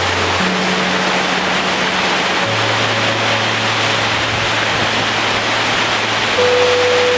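Heavy rain falling on a metal roof as a steady, even hiss. Soft background music of long held low notes sits under it, changing note every couple of seconds.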